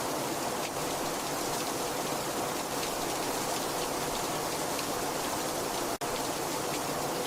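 Very heavy rain falling steadily, a dense hiss of rainfall with faint ticks of single drops, broken by a split-second gap about six seconds in.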